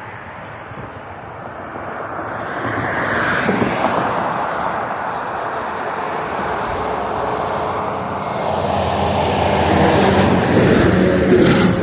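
A vehicle going by, its engine and rushing noise swelling over several seconds and loudest near the end.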